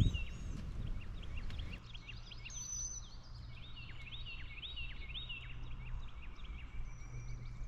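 Small birds chirping in many short, repeated calls over a faint low steady hum, with a brief bump of handling noise at the very start.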